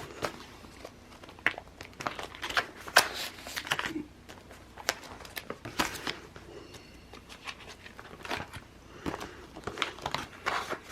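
Sticker sheets and planner paper being handled: irregular crinkling and rustling with small clicks and taps.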